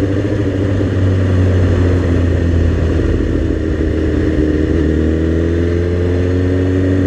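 Suzuki GSX-R sport bike's inline-four engine running under way, its pitch easing off slightly around the middle and then climbing steadily toward the end, over a steady rush of wind.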